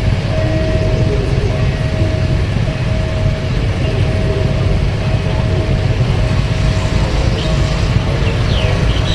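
Train passing over a level crossing: a loud, steady low rumble with a constant high tone running over it.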